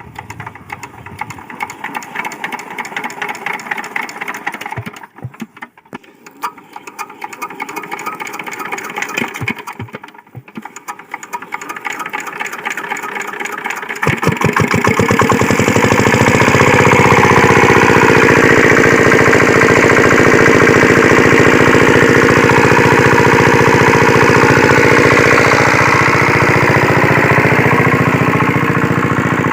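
Stationary single-cylinder diesel water-pump engine being turned over by hand, with two short breaks in the cranking, then catching about halfway through and running loud and steady.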